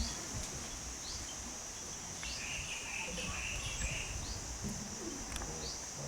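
Insects and birds: a steady high-pitched insect drone, a bird's short downward-sliding calls repeating about once a second, and a brief warbling song in the middle.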